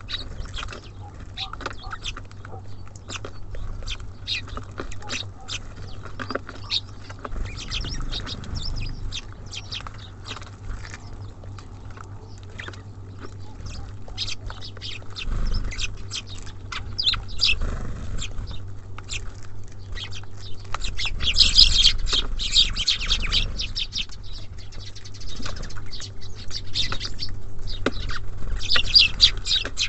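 Small songbirds chirping and calling at a bird feeder, with many short sharp ticks and taps throughout. There is a louder, denser flurry about two-thirds of the way through and another near the end, over a steady low hum.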